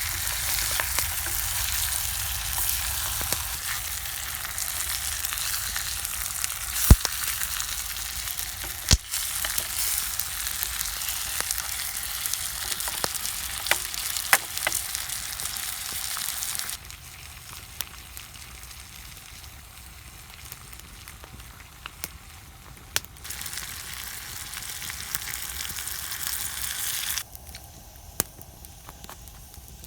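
Food frying and sizzling in a hangō mess tin over a campfire: a steady hissing sizzle with scattered sharp clicks. The sizzle drops off abruptly a little past halfway, returns, then drops again near the end.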